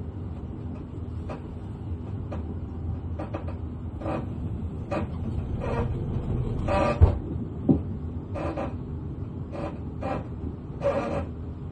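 Inside a Class 444 Desiro electric train on the move: a steady low rumble of the running gear, broken by irregular clunks and short squeaks as the wheels cross pointwork. The loudest knocks come about seven and eight seconds in.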